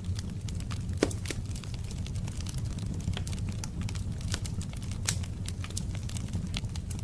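Wood fire crackling in a fireplace: irregular snaps and pops, one sharper pop about a second in, over a steady low rumble.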